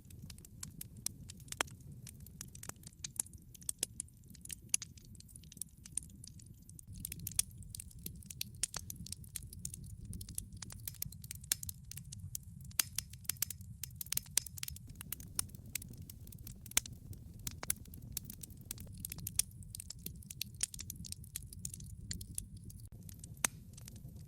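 Wood logs burning in a fireplace: a steady low rumble of the flames under irregular sharp crackles and pops, some much louder than others.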